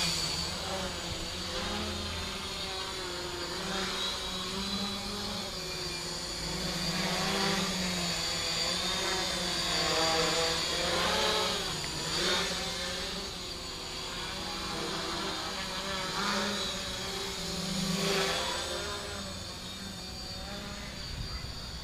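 A tricopter's three electric motors and propellers whine in flight, the pitch swinging up and down again and again as the throttle changes.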